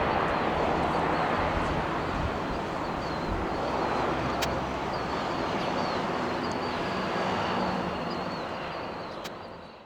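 Jet airliner engines heard from the ground, a steady rushing noise that dies away near the end.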